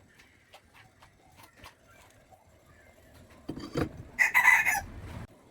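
A rooster crowing once, loud, starting about three and a half seconds in and lasting about a second and a half, after a few faint clicks.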